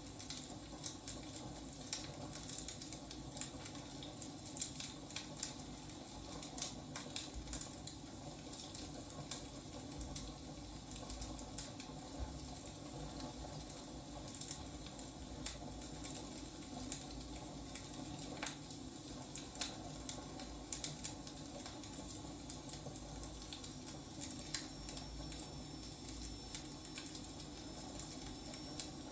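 Firewood burning, with irregular crackles and pops over a steady low rumble and hiss. A faint high whistle comes in near the end.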